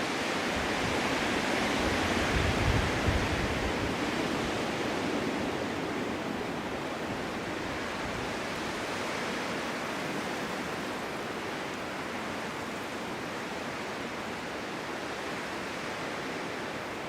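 Winter snowstorm wind blowing as a steady, broad rush that swells into a stronger gust with low rumbling about two seconds in, then settles back to an even blow.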